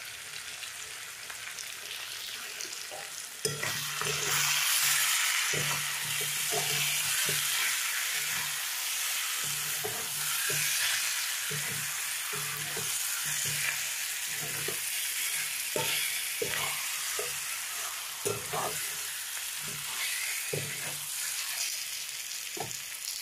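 Spice-coated chicken pieces sizzling in oil in a kadai while a spatula stirs and scrapes them, with irregular knocks of the spatula against the pan. The chicken is being dry-fried with its masala (kosha), and the sizzle grows louder about three and a half seconds in.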